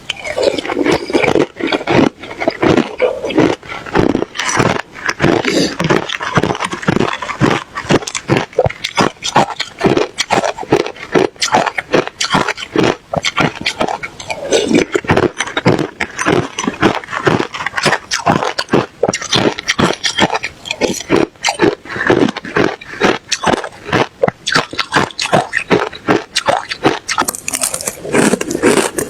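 Ice being chewed close to the microphone: a continuous run of loud, crisp crunches, several a second.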